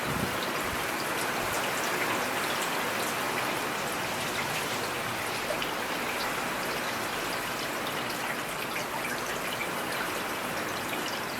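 Steady rain falling, with scattered individual drops heard as light ticks over an even wash of rain noise.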